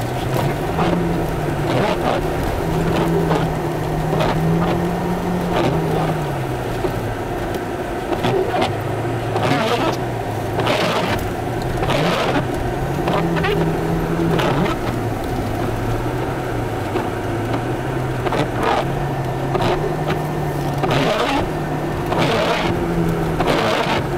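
An Audi's engine being revved up and down as the car is drifted on snow, its pitch climbing, holding and falling away again every few seconds. Brief bursts of hiss come and go over it.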